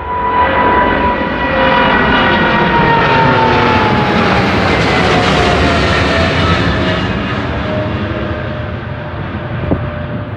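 Jet airliner passing close by: its engine noise swells to a peak midway and then eases off, while the engines' whine slides down in pitch as it goes past.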